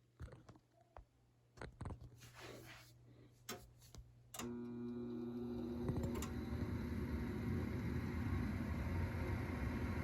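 Trane XL80 gas furnace starting up: a few scattered clicks, then about four seconds in a motor hum starts suddenly, and soon after a steady low rumble builds, in a start-up the owner labels a misfire.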